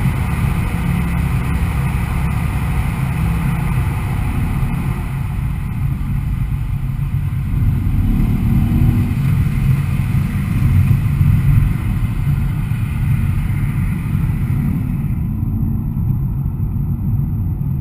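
Mercedes-AMG E63 S 4Matic's twin-turbo V8 running at a steady speed: a steady low rumble with road and wind hiss, the higher hiss falling away near the end.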